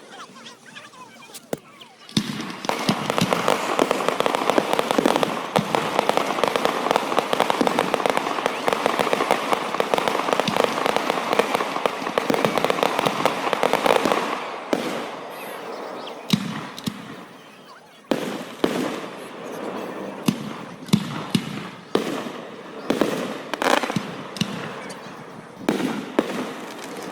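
Fireworks display: after a quiet couple of seconds, a dense crackling barrage of many rapid bangs runs for about twelve seconds and dies away, then single bangs follow roughly once a second, each with a short echoing tail.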